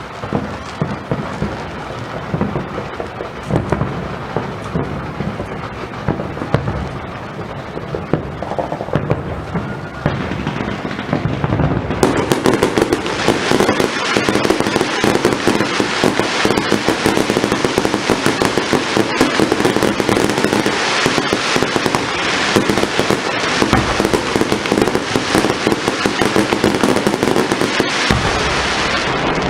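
Firework display: a dense run of deep booming bursts, then about twelve seconds in a loud, continuous crackling barrage of many small rapid bursts takes over and keeps going.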